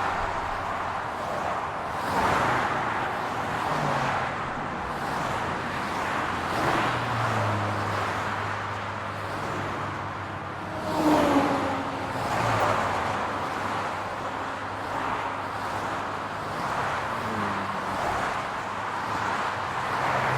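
Car traffic on a city road: a steady wash of tyre and engine noise with a low hum, swelling as cars pass every couple of seconds. One louder vehicle passes about halfway through.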